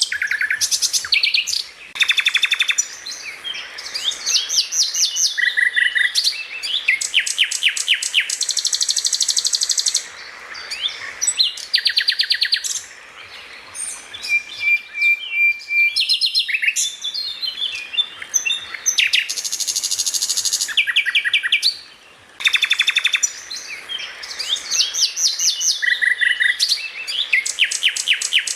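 Songbird singing a loud, varied 'masteran' song: rapid chattering trills, harsh buzzy notes and a held whistle, with only brief pauses.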